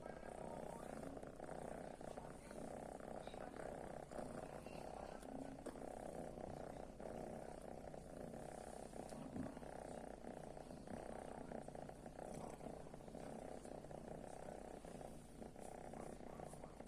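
A kitten purring steadily, an even low rumble that runs on without a break.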